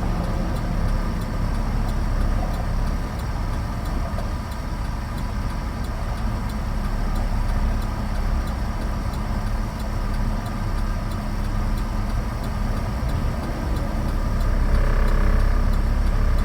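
Steady engine and road noise of a 2013 Chevrolet Avalanche pickup driving at road speed, heard from inside the cab. A low rumble throughout, getting a little louder near the end.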